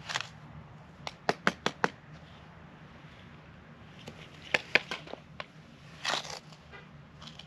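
Plastic snow-mould tongs clacking and squeezing loose snow: a quick run of sharp clicks about a second in, another few around four and a half seconds, and a crunching rustle near six seconds. The large-flaked, fluffy snow will not pack in the mould.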